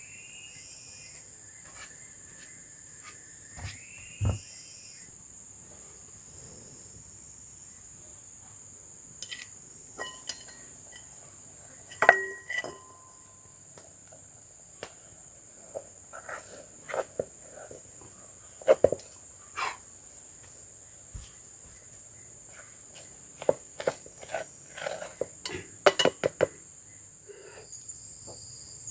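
Steady high-pitched drone of forest insects, such as crickets or cicadas, with scattered short knocks and clicks over it, most of them in the second half.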